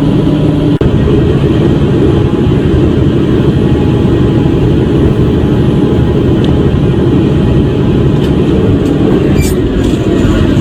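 Semi-truck on the road: steady loud engine and road rumble, with a few faint clicks near the end.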